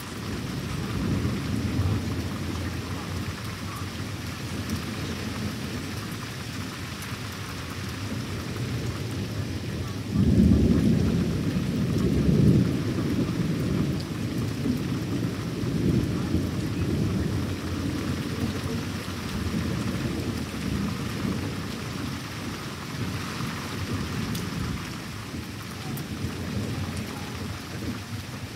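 Thunderstorm: steady rain falling, under near-continuous rolling thunder that swells to its loudest rumble about ten seconds in and keeps grumbling after.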